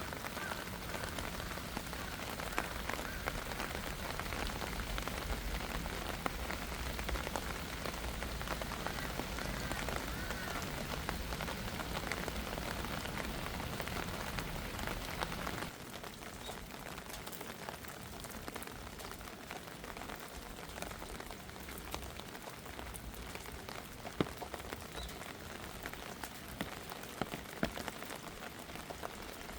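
Steady rain falling, with scattered sharp drop hits. About halfway through, a low rumble underneath drops away and the rain becomes quieter.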